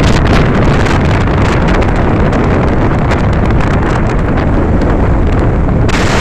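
Wind buffeting the microphone on a motorbike riding at speed: a loud, steady rush of air.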